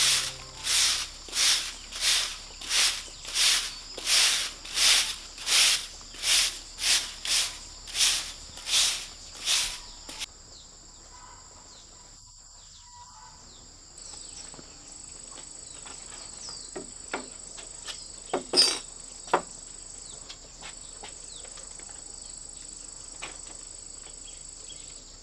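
Rhythmic scraping strokes, about one and a half a second, for the first ten seconds or so. After that comes a steady high chirring of insects with scattered light clicks, and one short louder rasp near the end.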